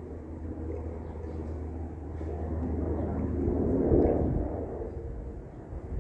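Airplane passing overhead: its rumble swells to its loudest about four seconds in, then fades away.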